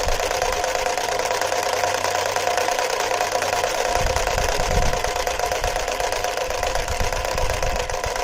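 A homemade three-cylinder triangle piston engine, driven by an electric motor, running steadily with a rapid rattling clatter and a steady whine.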